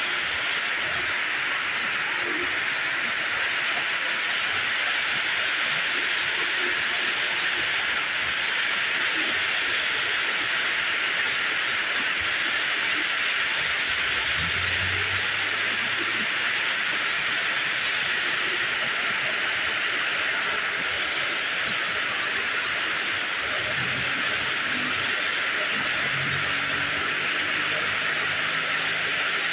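Heavy rain pouring down, a steady hiss, with a brief low hum around the middle and again near the end.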